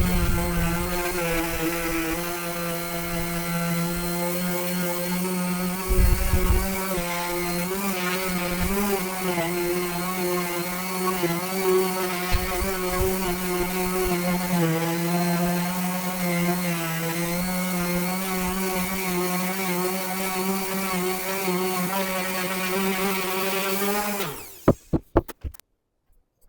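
Electric power tool motor running steadily under some load with a slightly wavering pitch and a couple of dull knocks. Near the end it is switched off, and its pitch falls as it winds down to a stop.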